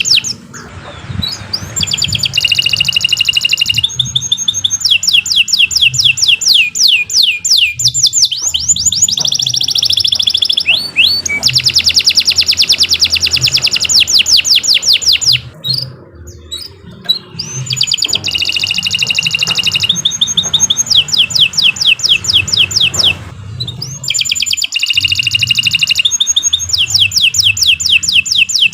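Domestic canary singing a long song of fast trills and rapid runs of repeated high notes, broken by short pauses about a second in, around the middle and again later on.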